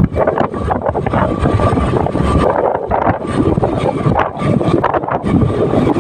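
Wind rushing and buffeting over the microphone of a moving motorcycle, with the vehicle's running and road noise underneath.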